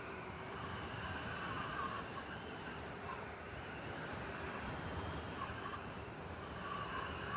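Blizzard wind blowing steadily through a city, a continuous noisy rush over a low rumble, with a higher hiss that swells and fades every second or two.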